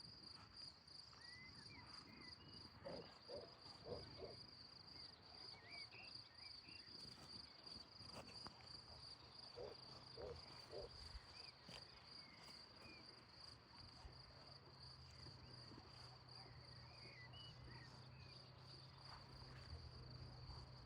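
Crickets chirring faintly and steadily in a high-pitched pulsing trill, with a few small bird chirps over it.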